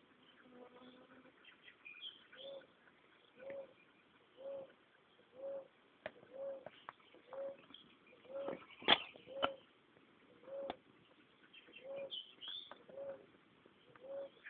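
A bird repeating a short, low hooting call about once a second, with a few sharp clicks near the middle.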